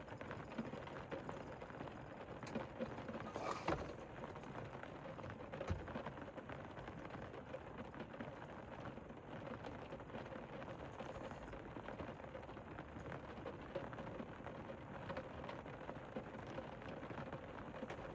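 Rain falling steadily on a camper van's roof, heard from inside the van, with a couple of faint knocks about four and six seconds in.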